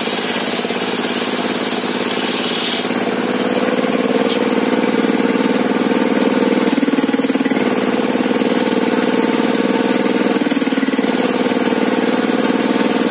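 Engine driving a sawmill table saw, running steadily, with its note shifting a few times as the load changes.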